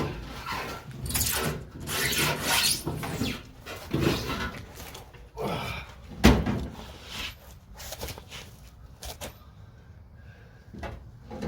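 Rear axle assembly being wrestled out from under a 1970 Plymouth Duster: irregular scraping and rubbing with several clunks, the sharpest knock about six seconds in.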